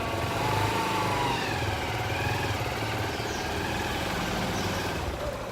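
Motorbike engine running as it pulls away, its pitch slowly rising and falling.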